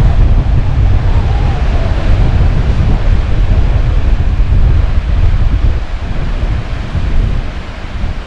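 Strong gusty wind buffeting the microphone with a heavy rumble, over the rush of surf. The gusts ease slightly near the end.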